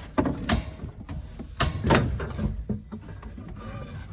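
Several irregular knocks and bangs, as of a heavy object being shifted and bumped against wood and metal, the loudest about two seconds in.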